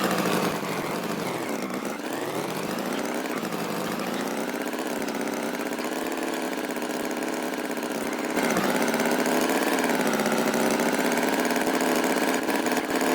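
An engine running steadily with a buzzing hum. Its pitch dips and climbs back up about two seconds in, and it gets a little louder about eight seconds in.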